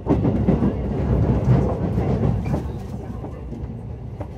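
Interior of a JR West 223-2000 series rapid train running over points: a steady rumble with rapid wheel clicks and clatter, loudest for the first two or three seconds, then quieter as the train enters the station.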